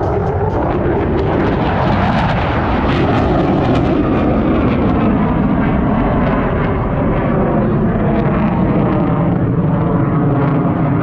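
Aircraft engine noise from a display plane, loud and steady, with faint tones that slowly shift in pitch.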